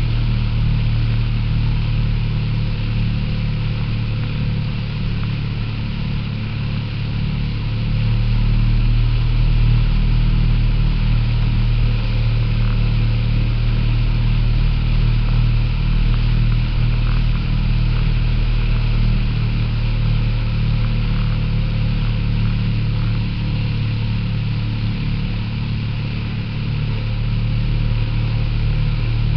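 Motorboat engine running steadily under way, a constant low drone heard from aboard the boat.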